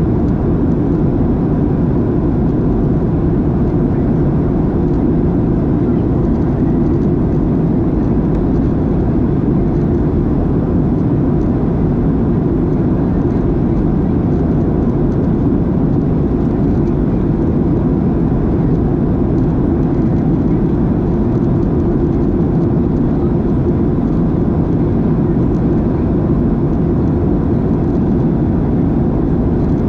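Steady cabin noise inside a Boeing 737-700 in flight: a constant low rumble of the CFM56-7B turbofan engines and airflow, with a faint steady whine, unchanging throughout.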